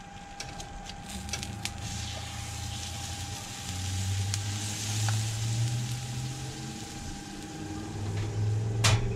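Food sizzling on a hot Blackstone flat-top griddle, with a few sharp clicks of metal tongs against the wire rack as the pork tenderloin is lifted off.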